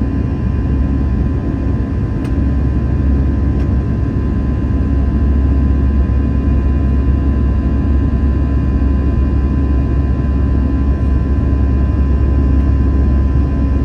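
Airbus A320 jet engine noise heard inside the passenger cabin: a steady low rumble with several steady whining tones above it.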